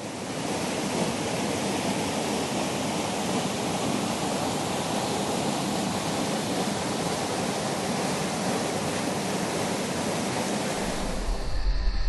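Fast-flowing river water rushing steadily, a continuous even hiss of white water. Background music with a deep bass comes in near the end.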